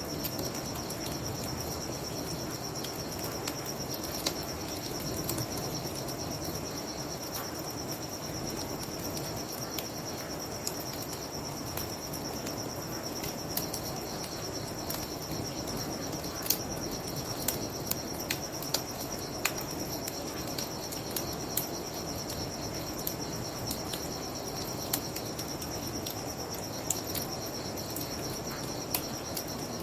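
Crickets chirping in a steady high-pitched chorus over a wood bonfire crackling with frequent sharp pops, with a low rushing noise of river water underneath.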